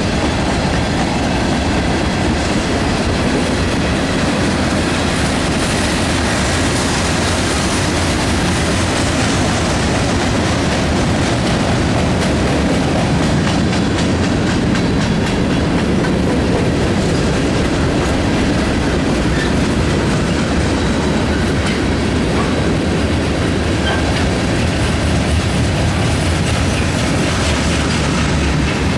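Railroad cars rolling steadily past, with a continuous clickety-clack of steel wheels over rail joints.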